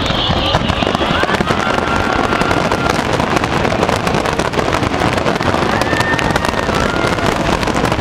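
Fireworks finale: a dense, continuous volley of crackling and popping aerial shells, with a couple of thin whistles rising through it about one and six seconds in.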